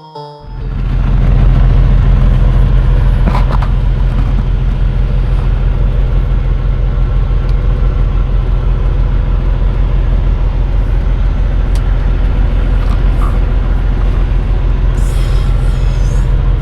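Semi truck's diesel engine idling steadily, a loud, even low rumble heard from inside the cab. There are a couple of faint clicks along the way.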